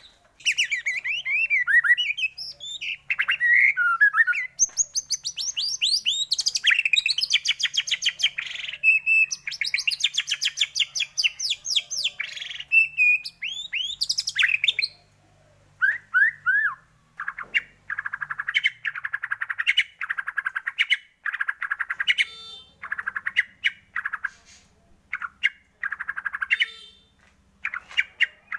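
White-rumped shama (murai batu) singing: fast, varied phrases of trills and whistled glides for the first half, then, after a short pause, a string of short rattling bursts repeated about once a second.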